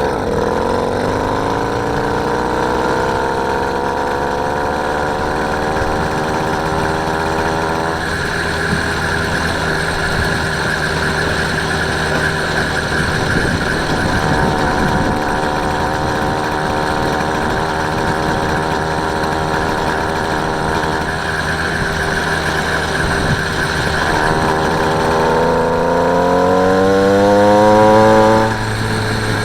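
Small engine of a motorised bicycle running under way. Its pitch sinks over the first few seconds and then holds steady. Near the end the revs climb to their loudest and drop off suddenly as the throttle is shut.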